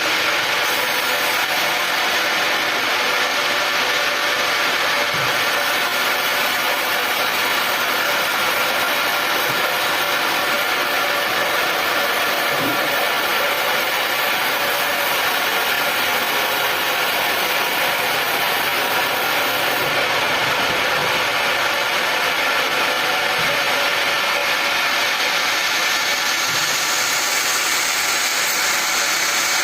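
Sawmill machinery running steadily, an even, loud mechanical noise with no let-up.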